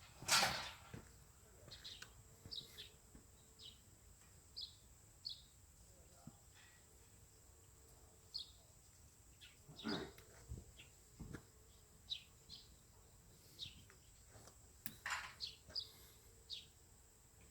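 Small birds chirping outdoors: short high chirps scattered throughout, with a few sharp knocks, the loudest right at the start and about ten seconds in.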